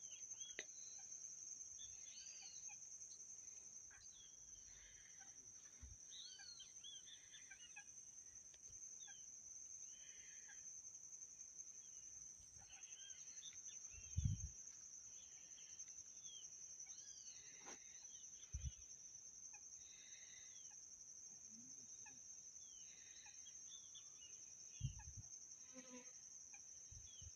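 Faint outdoor ambience: a steady high-pitched insect drone, with scattered short bird chirps and calls. Three brief low thumps occur about halfway through, shortly after, and near the end.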